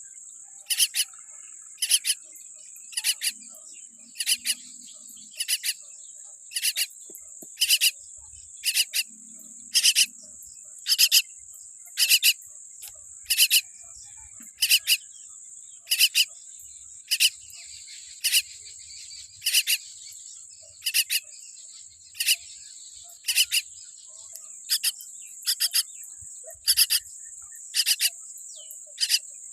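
Baby common myna chick calling over and over: short, harsh, noisy calls about once a second, often in quick pairs. A steady high-pitched insect-like drone runs underneath.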